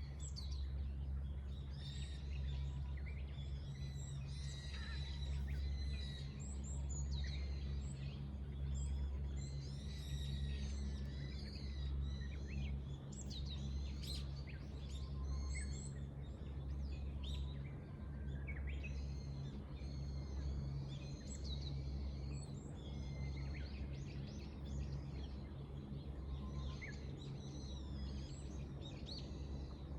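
Many small birds chirping and singing in quick, overlapping calls, over a steady low hum.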